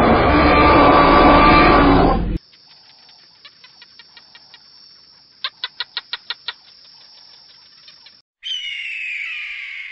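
A loud dinosaur roar, likely a dubbed sound effect, cuts off about two seconds in. A quiet run of rapid chirping clicks follows, with a burst of about eight louder ones in the middle. Near the end comes a single bird screech that falls in pitch.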